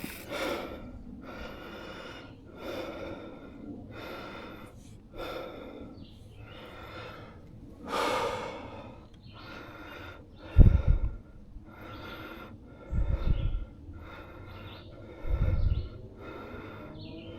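A mountain biker breathing hard and rhythmically while riding, a breath about every second and a half. Three low thumps come in the second half, the first and loudest about ten and a half seconds in.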